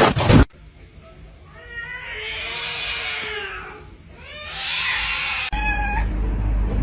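Cats meowing: a long drawn-out meow that rises and falls in pitch, then a shorter one, and after an abrupt change in background a short meow over a low hum. A loud noise cuts off about half a second in.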